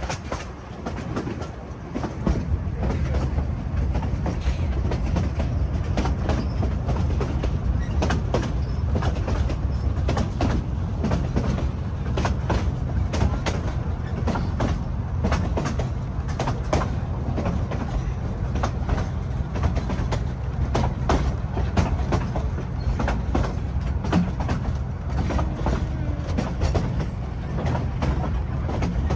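Narrow-gauge passenger train heard from aboard, its cars rolling along the track: a steady low rumble with frequent irregular clicks and clacks of the wheels on the rails, growing louder about two seconds in.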